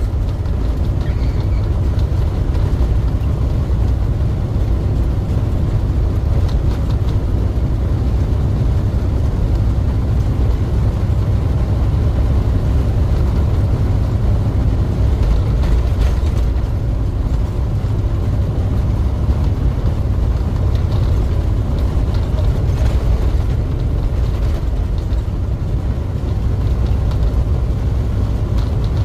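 Truck running down the road: a steady low rumble of engine and road noise.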